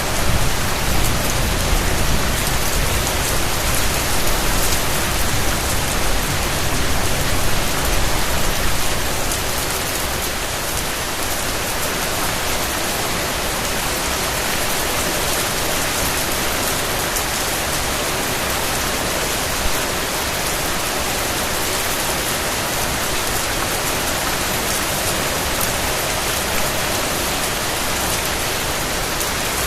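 Steady rain falling, a dense even hiss of many drops on surfaces. A deeper rumble under it in the first third eases off, and the rain then runs on evenly.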